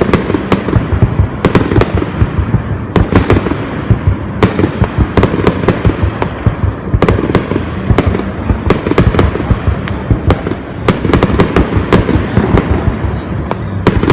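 Fireworks display: many aerial shell bursts going off in quick, overlapping succession, deep booms mixed with sharp cracks, with no pause.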